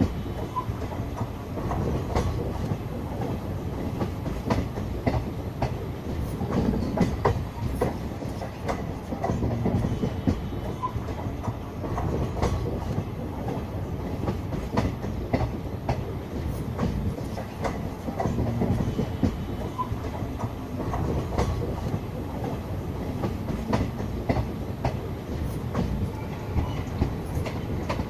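Passenger train running along the track: a steady wheel-and-rail rumble with irregular clickety-clack over the rail joints.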